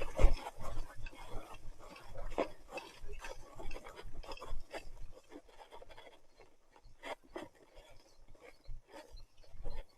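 Irregular clicks, knocks and rubbing, with low thumps; the loudest thump comes about a quarter second in, and the knocks thin out in the second half.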